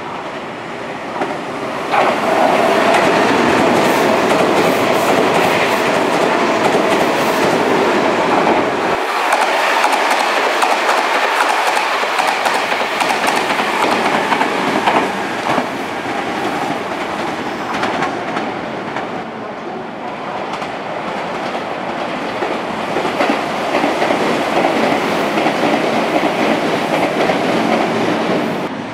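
An electric train running past close to the platform, its wheels clattering over the rail joints under a steady rushing noise. The noise rises sharply about two seconds in and drops off just before the end.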